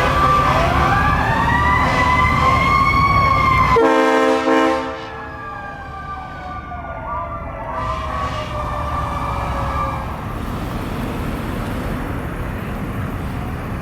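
Fire truck sirens wailing up and down together. About four seconds in comes a short steady horn blast, then a siren winds down, falling slowly in pitch and dying out after about ten seconds, leaving a steady background of street noise.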